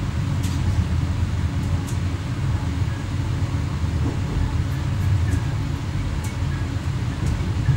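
Steady low rumble inside the driver's cab of an X11 electric multiple unit, with a few faint clicks scattered through it.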